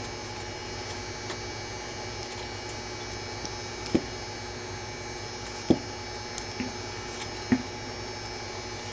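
Craft wire being twisted by hand around a crystal: a handful of small, sharp ticks and clicks, spaced irregularly, over a steady electrical hum.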